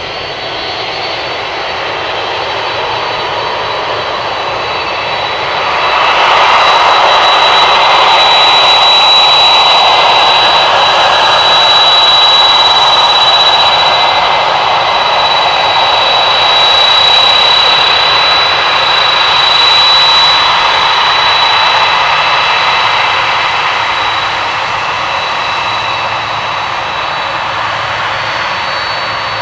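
Boeing 767 jet engines running at close range: a broad rush with a steady high-pitched whine. It swells loud about six seconds in, holds for about a quarter of a minute, then slowly fades.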